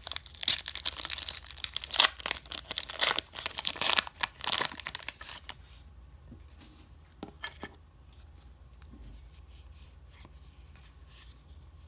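Baseball card pack wrapper being torn open and crinkled, with loud rustling and sharp tearing for about the first five seconds, then quieter handling with a few small taps as the cards come out.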